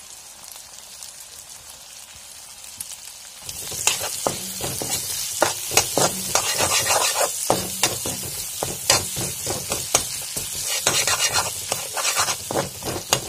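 Sliced onions with freshly added ginger and garlic sizzling in hot oil in a pan, quietly at first. About three and a half seconds in, the sizzle grows louder as a spatula stirs the mixture, with frequent sharp clicks of the spatula scraping the pan.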